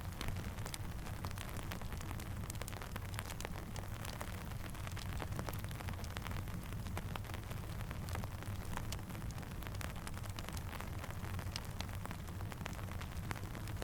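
Steady rain falling, with a campfire crackling: many small sharp pops scattered over a constant hiss and a low rumble.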